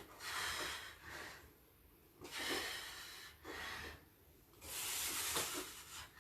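A woman breathing hard through exertion, in a run of about five loud, hissing breaths in and out, spaced unevenly.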